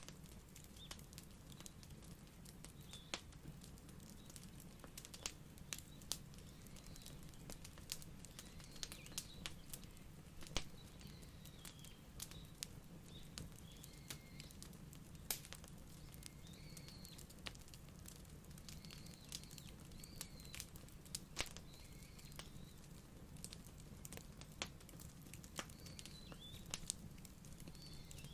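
Wood fire crackling, with sharp irregular pops over a low steady rumble. Faint bird chirps come and go in the background.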